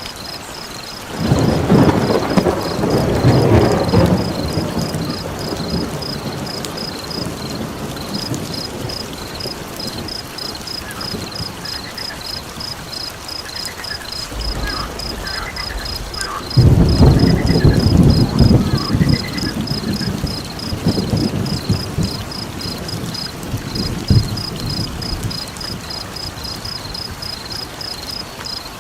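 Steady rain with two long rolls of thunder, the first starting about a second in and the second about halfway through, which are the loudest sounds. Underneath runs a steady high-pitched chirping at about four chirps a second.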